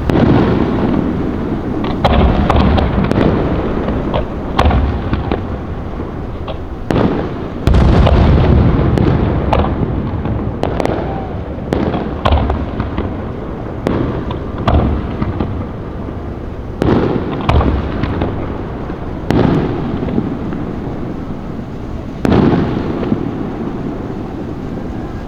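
Fireworks shells bursting overhead in a steady series of loud bangs, roughly one every two or three seconds. Each bang trails off into a long low rumble, and the loudest comes about eight seconds in.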